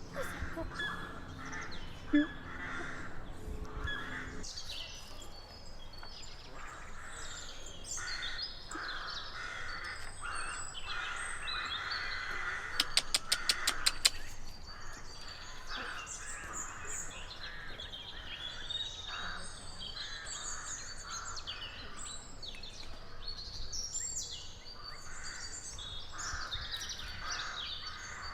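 Wild birds chirping and calling all around, many short calls overlapping. A low steady hum runs under them and stops about four seconds in, and about halfway through comes a quick run of roughly eight sharp clicks, the loudest sound here.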